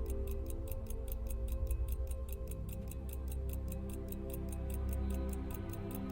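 Cortebert cal. 523 pocket watch movement ticking steadily at about five ticks a second, over soft background music.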